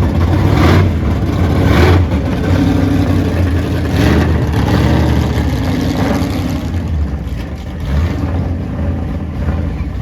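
Car engine noise with a heavy low rumble, surging now and then.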